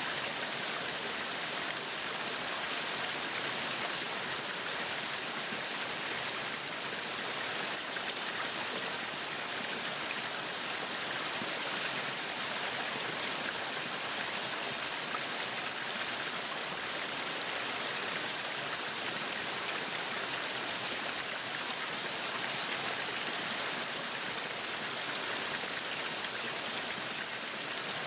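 Meat sizzling steadily on a yakiniku grill, a dense even hiss with fine crackle.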